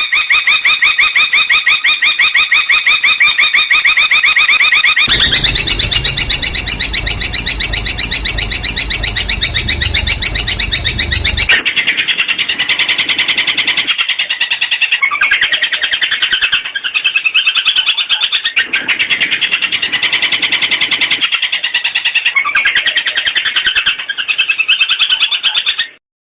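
Long-tailed shrike (cendet) singing rapid strings of fast-repeated, chattering notes in phrases separated by short breaks. A low rumble runs underneath from about five seconds in to about eleven seconds.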